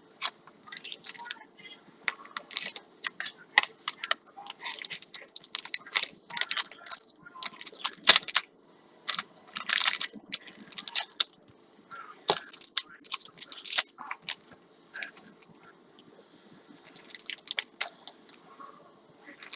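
Paper and plastic packaging rustling and crinkling as items are unwrapped and handled, with light clicks and taps in irregular bursts.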